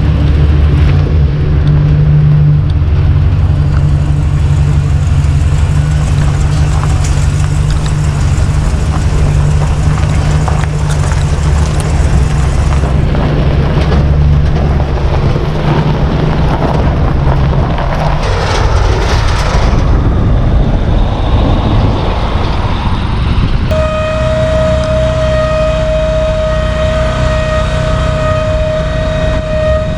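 Heavy vehicle engine running steadily and loud, hauling a seed tender. About two-thirds of the way through, a steady high whine with several overtones starts up alongside the engine.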